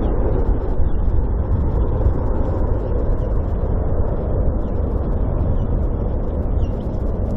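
Boeing 777-300 airliner's jet engines on final approach, a loud, steady low rumble.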